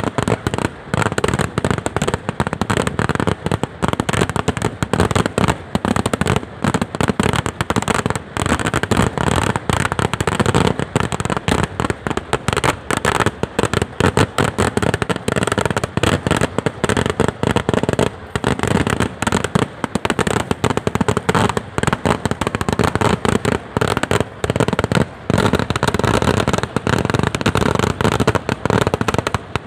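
A temple-festival fireworks display: a dense, unbroken barrage of firecracker bangs going off in quick succession.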